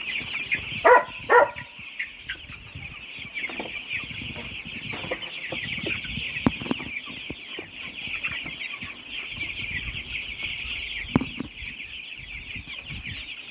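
A flock of about a hundred young chickens in their third week peeping continuously, a dense chorus of many overlapping chirps, with two louder calls about a second in.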